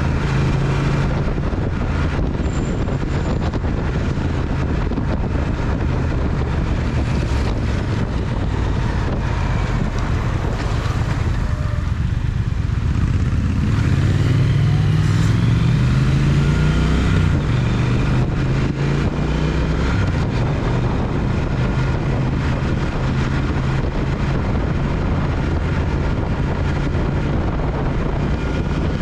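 Triumph Speed Twin parallel-twin engine running under way, with wind and road noise. The revs rise for a few seconds about halfway through as the bike accelerates.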